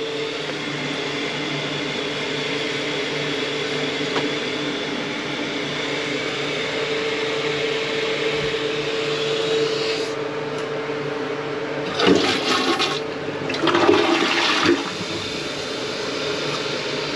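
Toilet flushing as a test after clearing a slow-flushing bowl. Water rushes steadily for about ten seconds with a steady hum under it, then settles to quieter running water as the tank refills. Two short, louder noises come near the end.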